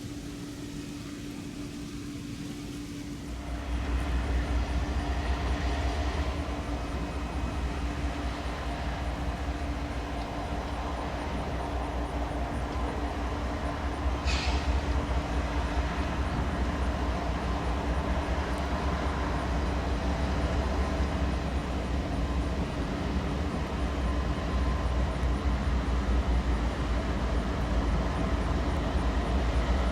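A train rolling past: a steady low rumble of wheels on rail that swells about three seconds in and keeps building. A brief high squeal comes about fourteen seconds in.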